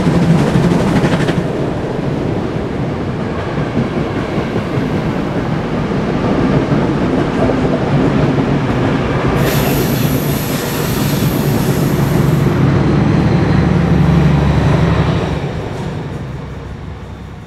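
A train's wagons rolling past on the rails with a loud, continuous rumble and clatter, a brief high-pitched wheel squeal about ten seconds in, then the sound fades away as the train moves off.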